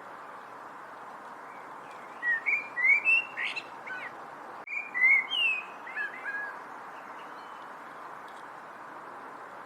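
A songbird singing two short phrases of quick, sliding, chirpy whistled notes, about two seconds in and again about five seconds in, over a steady background hiss.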